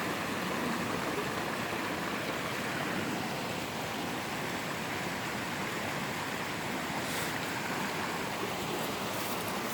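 Steady rush of flowing creek water, with a few faint ticks near the end.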